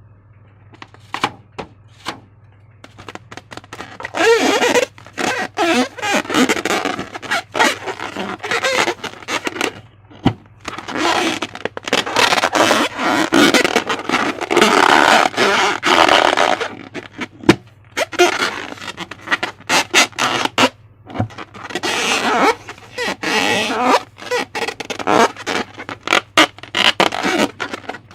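Slime being squeezed and worked by hand: stretches of wet squelching lasting a few seconds, broken up by sharp clicks and crackles.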